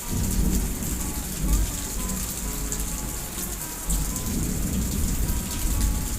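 Heavy rain hissing steadily, with a deep rumble of thunder that sets in suddenly and swells twice, about a second and a half and four seconds in.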